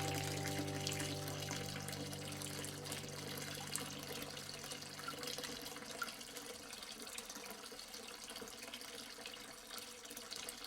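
Running water trickling steadily with small drips, while held background music notes fade out over the first few seconds; the whole sound slowly fades down.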